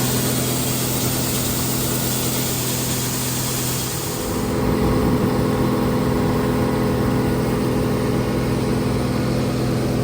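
Vehicle engine running at a steady speed with an even hum. About four seconds in, the sound changes: the hiss dies down and the engine tone shifts slightly.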